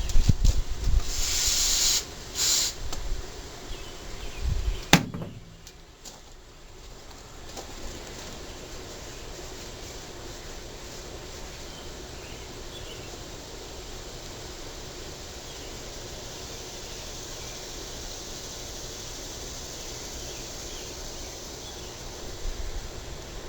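Aerosol carb cleaner spraying in a long hiss and then a short second burst, followed by a sharp click about five seconds in. After that there is a steady faint outdoor background with insects.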